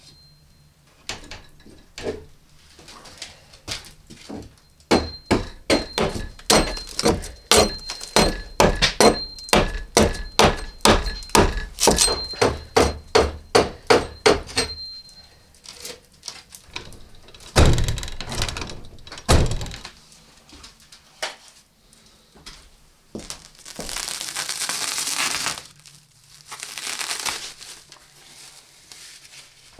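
A fast, even run of sharp knocks, about two or three a second for roughly ten seconds, with a faint ringing tone above them. It is followed by two heavier thuds and then two spells of hissing, rustling noise.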